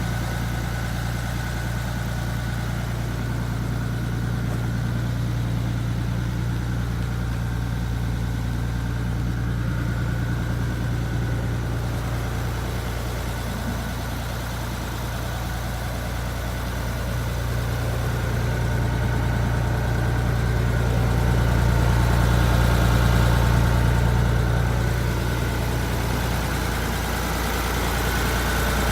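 Hino Ranger truck's diesel engine idling steadily, growing somewhat louder about two-thirds of the way through before settling back.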